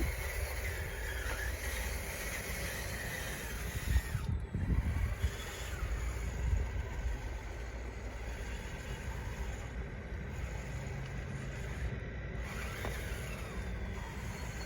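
Radio-controlled bulldozer's electric drive motors and gearing running with a faint steady whine, under a gusty rumble of wind on the microphone.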